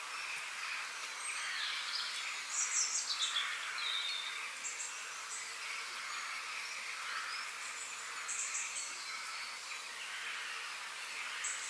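Several wild birds singing and chirping over a steady background hiss. Clusters of high, rapid chirps come about two and a half seconds in, around eight seconds and again near the end.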